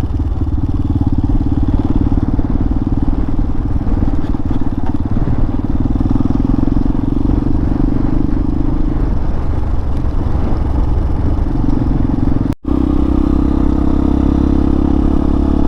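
Hawk 250 dual-sport motorcycle engine running steadily under way, heard from the rider's position along with wind and road noise. The sound drops out for an instant about three-quarters of the way through, then the engine carries on at a steady pitch.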